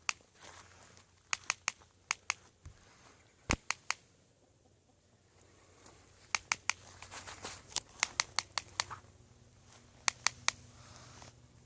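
Juvenile great horned owl snapping its beak: sharp clacks in quick clusters of two to four, repeated every second or two. This is the owl's defensive bill-snapping threat while it is trapped in netting.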